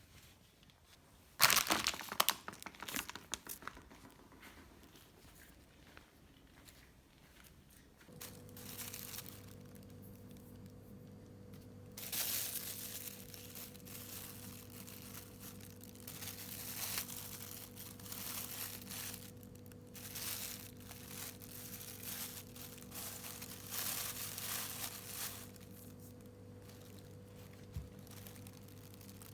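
Crinkling and rustling of handled material, a burst of sharp crackles early on and a longer stretch of rough rustling later, over a steady low appliance hum that switches on about eight seconds in.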